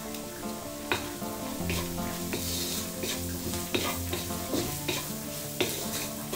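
Sliced onions and spices sizzling as they fry in a wok, with a wooden spatula stirring and scraping the pan in irregular strokes from about a second in.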